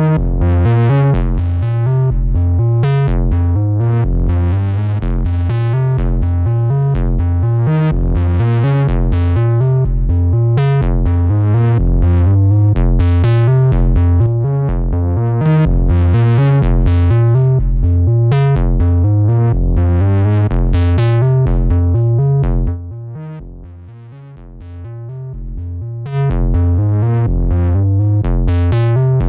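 Software-synth bass line playing a repeating rhythmic pattern of short notes, run through an SSL Fusion analog colour processor. It drops much quieter for about three seconds roughly two-thirds of the way through, then comes back in full.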